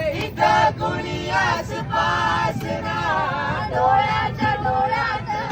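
Several men and women singing a Marathi song together, with a steady low train rumble underneath.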